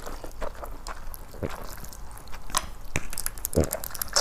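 Close-miked eating sounds of noodles tossed in salad dressing being chewed: scattered small wet mouth clicks, with a couple of brief low sounds.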